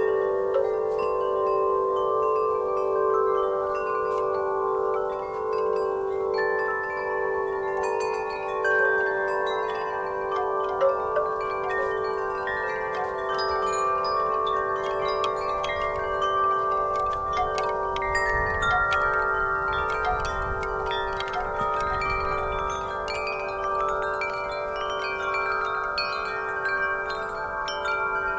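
Wind chimes ringing continuously in a breeze, with many overlapping, sustained tones struck again and again at irregular moments. A faint low wind rumble rises briefly past the middle.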